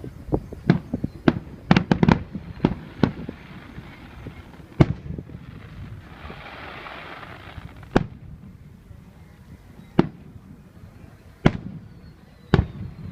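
Fireworks show: a rapid volley of sharp bangs in the first three seconds, then single bangs every second or two. A stretch of hiss comes midway.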